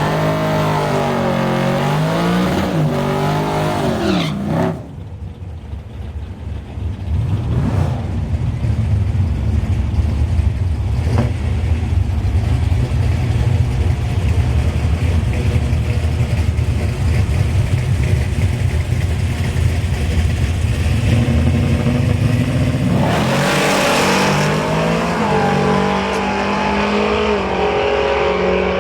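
383 stroker V8 engine running loud. For the first few seconds its note wavers up and down, then from about five seconds in a heavy steady rumble builds and holds, and near the end the engine note rises smoothly as it revs up.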